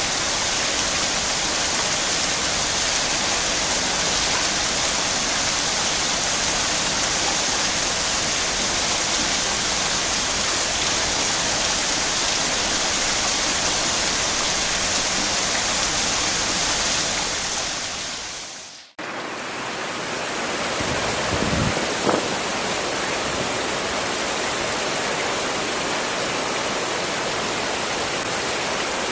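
Steady rain, a dense even hiss, fading out about two-thirds of the way through. Straight after, a different recording of steady rain comes in, brighter and fuller, with a brief low thud about three seconds after it starts.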